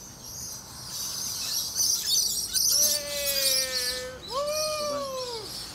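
Birds chirping, with two long drawn-out calls: the first held and slowly falling, the second rising then falling.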